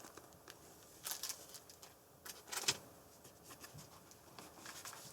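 Soft rustling and a few light clicks and taps from small unboxed items, a keychain and its packaging, being handled, with the loudest handling noises about a second in and again around two and a half seconds in.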